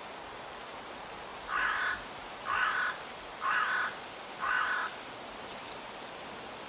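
A bird calling four times, each call about half a second long and about a second apart, over a steady outdoor hiss.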